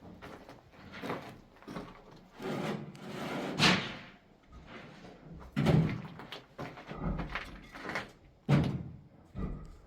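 Irregular knocks, thuds and scraping from hand work on masonry and plaster, with three sharp loud thuds spaced a couple of seconds apart.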